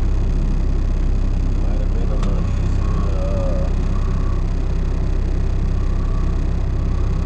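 Diesel engine of a tri-axle rollback truck running steadily at a low, even drone, with a single sharp click just after two seconds.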